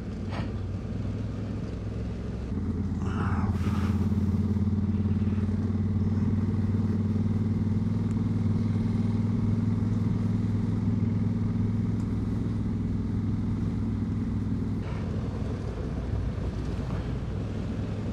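2022 Honda Africa Twin's parallel-twin engine running on the move under steady throttle. It gets louder about two and a half seconds in, holds, then eases off about fifteen seconds in, over a steady rush of wind and tyre noise.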